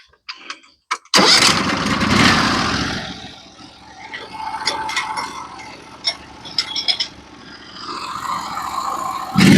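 Portable bandsaw mill's gasoline engine starting about a second in, running loud for about two seconds, then settling to a quieter idle with scattered clicks; it runs up loud again just before the end.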